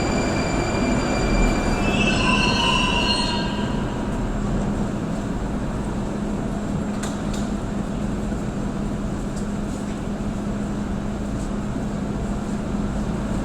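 A train running on the rails: a steady rumble with a constant low hum, and high squealing tones over the first three seconds or so that then fade out.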